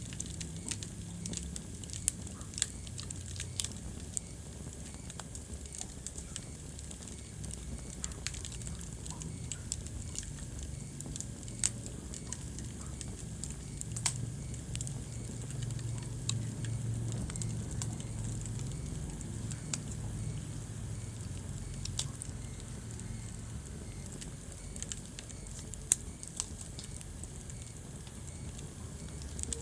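Wood fire burning in a fireplace, crackling with scattered sharp pops over a steady low rumble of flame. The loudest pop comes near the end.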